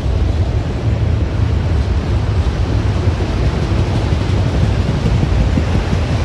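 Freight train of autorack cars rolling past at steady speed: a continuous low rumble of steel wheels on the rails.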